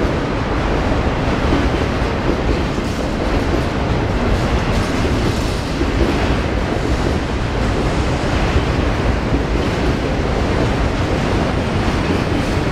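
CSX freight train passing close by: a loud, steady rolling rumble of steel wheels on the rails.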